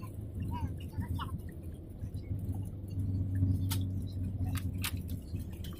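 Airliner engines heard from inside the cabin as a steady low drone, with a few sharp clicks in the second half.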